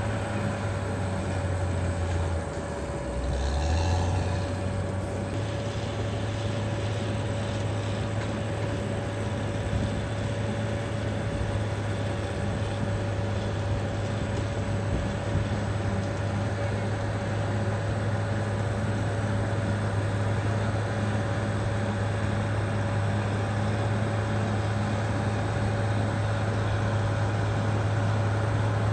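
Caterpillar D6R XL bulldozer's diesel engine running steadily under work, with a steady whine over the low engine note; the engine pitch drops briefly about three seconds in and then comes back up.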